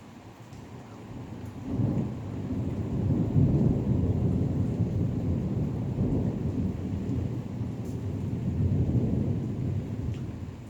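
Rolling thunder: a long, low rumble that builds about two seconds in, rolls on, swells again near the end, then fades.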